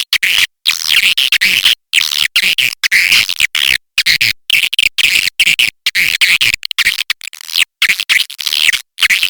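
Swiftlet call recording: a dense, rapid twittering chatter, high-pitched and harsh, broken by many abrupt gaps. It is a lure call played to attract swiftlets to a nesting house.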